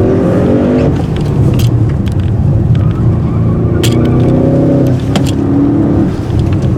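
Audi RS6's twin-turbo V8 pulling hard under heavy throttle, heard from inside the cabin. The engine note rises, breaks off about a second in, then climbs again from about four seconds, with a few sharp clicks along the way.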